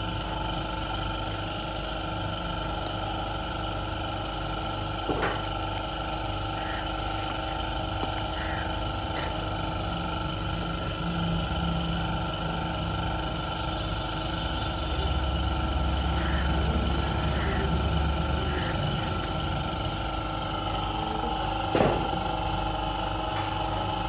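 A car engine running steadily, a constant mechanical hum, with a deeper low drone for a few seconds past the middle. Two short sharp knocks, one about five seconds in and one near the end.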